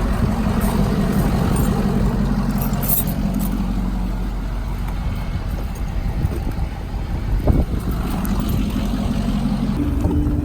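An engine running steadily, its tone stepping up in pitch near the end.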